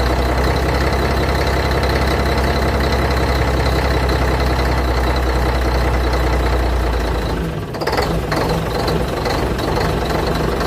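Scania 113 truck's diesel engine idling steadily with a deep hum. Near the end the sound changes abruptly, with a brief dip and a couple of clicks, and the engine runs on with a pulsing low note.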